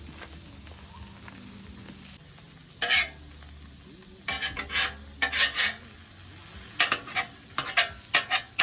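Short, sharp scraping sounds in irregular clusters: one about three seconds in, a run from about four to six seconds, and another from about seven seconds on, over a low steady background.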